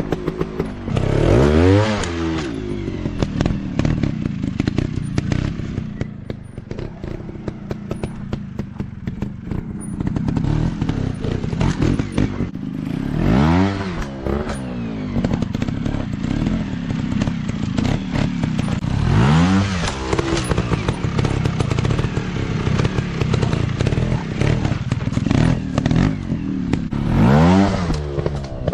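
Off-road dirt bike engines running, with repeated sharp blips of the throttle that rise and fall in pitch: about a second in, near two seconds, then around the middle, about two-thirds through and near the end. Clattering and scraping from the bikes runs underneath.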